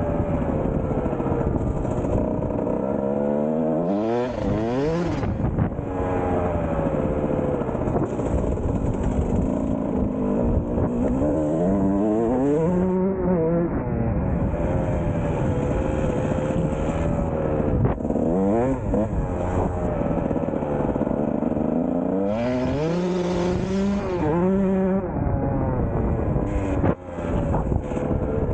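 Kawasaki KX125 two-stroke single-cylinder engine running, its pitch rising and falling as it is revved up and dropped back again and again.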